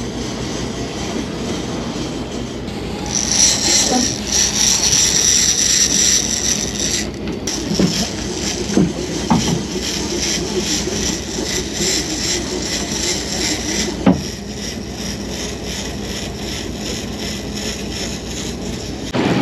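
Fishing boat's engine running steadily under way, a low, even drone, with a stretch of hiss about three to seven seconds in and a few short knocks.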